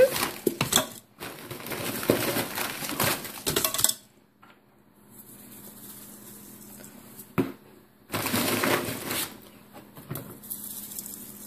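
Frozen chicken strips clattering into a pressure cooker's pot while the plastic bag crinkles, in two stretches: the first four seconds and again about eight seconds in, with a single knock in the quieter gap between.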